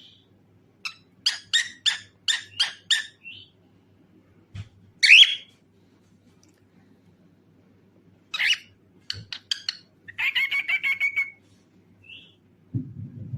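Pet cockatiel chirping and calling: a quick run of about seven short chirps, one loud call about five seconds in, and a fast chattering trill near the end.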